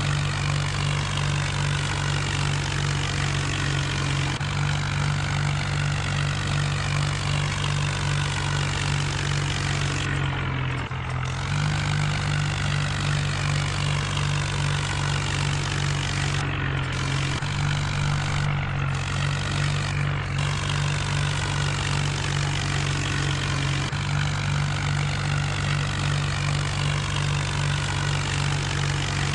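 John Deere tractor's diesel engine running steadily, working a rotavator. The engine note dips briefly about ten seconds in.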